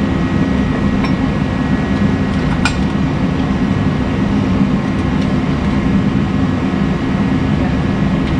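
Steady mechanical drone with a low hum, broken by a couple of brief light clicks.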